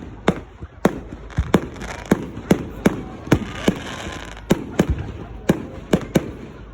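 Fireworks going off in a rapid, irregular string of sharp bangs, about two to three a second, with crackling in the middle.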